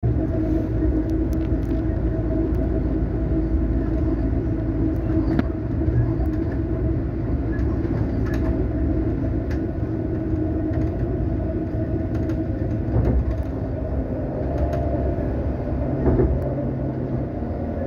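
Running noise inside a moving train: a steady rumble of wheels on rails with a low hum, and scattered clicks and knocks from the track.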